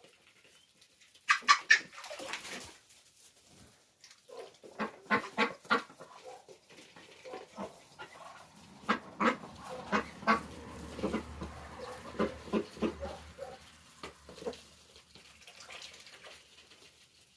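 Poultry calling in short, repeated calls that come in clusters a few seconds apart.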